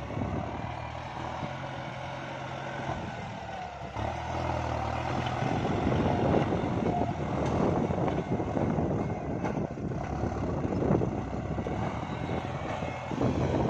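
Tractor engine running under load while plowing a rice paddy, steady, growing louder about four seconds in.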